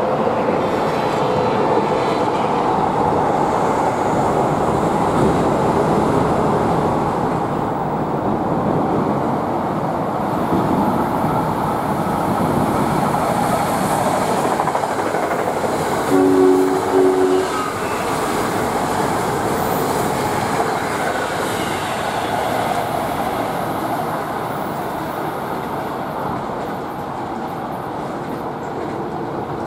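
NJ Transit Arrow III electric multiple-unit train passing through the station, its wheels and running gear rumbling steadily, with two short blasts of its two-note horn about halfway through. The rumble fades near the end as the train goes by.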